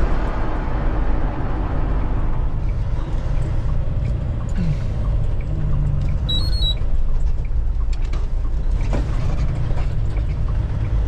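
Steady low engine and road rumble inside the cab of an International LT semi truck under way, with scattered rattles and knocks from the cab over a bumpy road. A short high beep sounds about halfway through.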